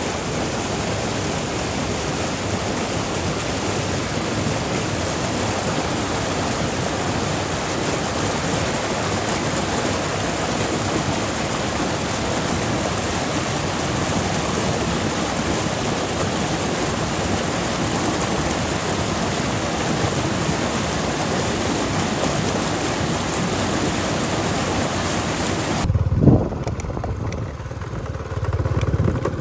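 Steady rush of flowing water, a stream or waterfall. About 26 seconds in it cuts off abruptly to a loud thump, followed by a low motorbike-engine rumble near the end.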